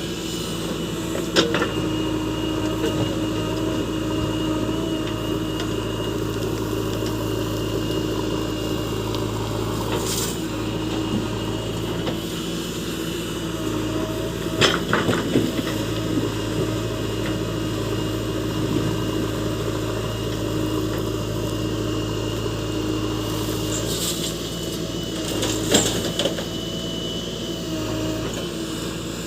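JCB 3DX backhoe loader's diesel engine running steadily, with a few short, sharp knocks along the way.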